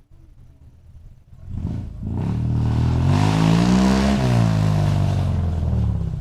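Suzuki Escudo 4x4 engine through an aftermarket dual ('stereo') racing exhaust, revved once from idle. The exhaust note climbs over about two seconds, peaks, then falls back toward idle.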